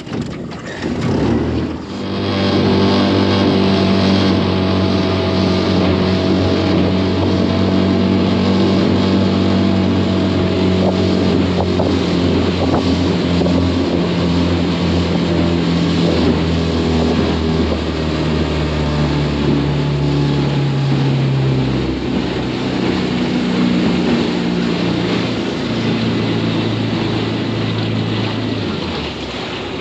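Small boat's outboard motor running underway. It opens up about two seconds in, runs at a steady note, and the engine note shifts a few times in the second half as the throttle changes.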